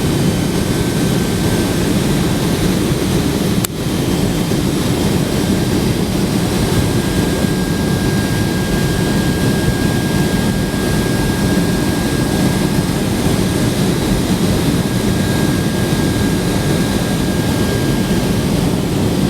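Cabin noise inside a Boeing 767-300 airliner: a steady low rumble of jet engines and airflow with a thin steady whine. A single sharp click comes about four seconds in.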